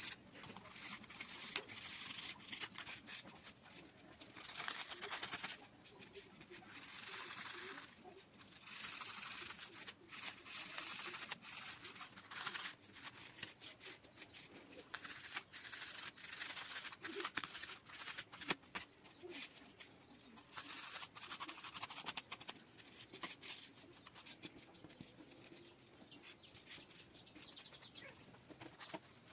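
Irregular rubbing and scraping strokes of hand craftwork on craft materials, each lasting a second or two, with short pauses between.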